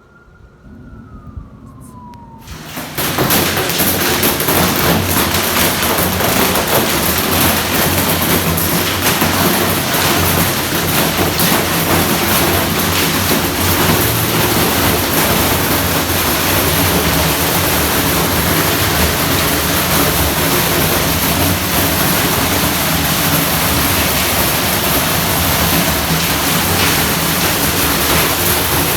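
A heavy hailstorm: a loud, dense, steady din of hail pelting down that starts suddenly about three seconds in.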